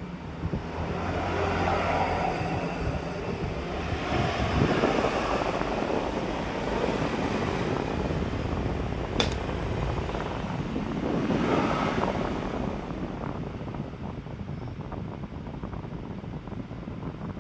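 Electric fan running at high speed, a steady rush of air that swells and fades several times, with a low hum in the first few seconds. A single sharp click sounds about nine seconds in.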